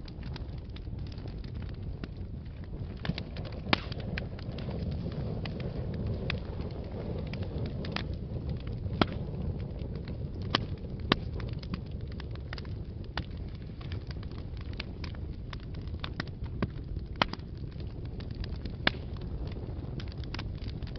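Wood fire burning in a fireplace: a steady low roar of the flames with irregular sharp crackles and pops from the burning wood, a handful of them louder.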